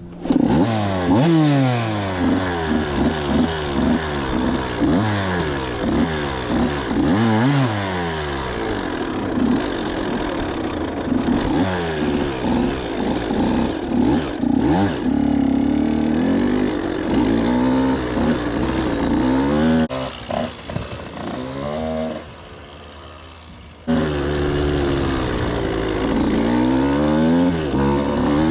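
Dirt bike engine revving up and down over and over as it is ridden, its pitch rising and falling with throttle and gear changes. About twenty seconds in it falls quieter for a few seconds, then comes back suddenly.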